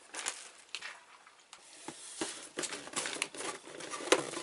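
Plastic snack packaging crinkling and rustling in irregular handling noises as it is picked up. There is one sharp click a little before the end.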